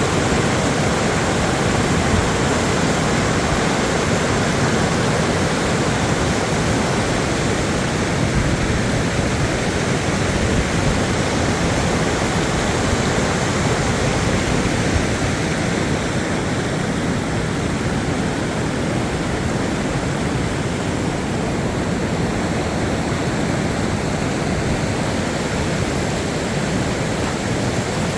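Loud, steady rushing of water, an even noise with no pauses.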